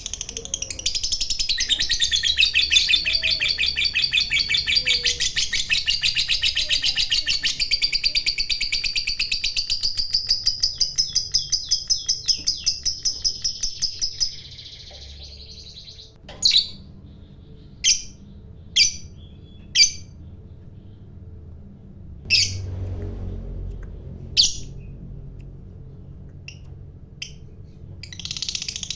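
Lovebird giving its long, rapid chattering trill (the 'ngekek panjang' song) for about fourteen seconds, then a handful of short, sharp single chirps, and starting up again near the end.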